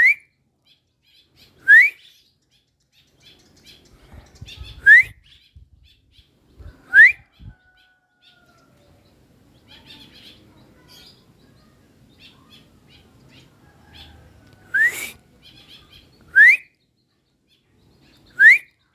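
A bird calls with a short, loud whistle that rises quickly in pitch, seven times at uneven intervals of about two seconds, with a longer pause in the middle. Fainter chirps come between the calls.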